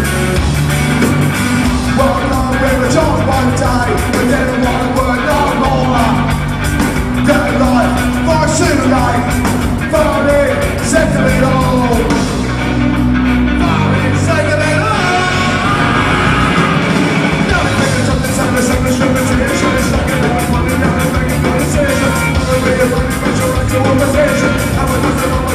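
Ska-punk band playing live with drums, bass and guitar, and a singer's vocals over a steady beat; the backing drops out briefly about halfway through, then the full band comes back in.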